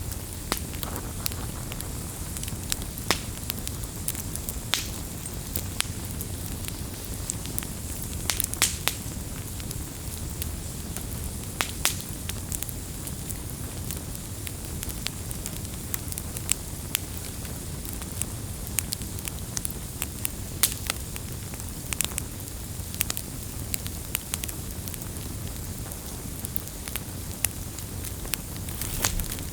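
Wood fire burning: a steady low rush of flame with irregular sharp crackles and pops scattered through it, a few snaps louder than the rest.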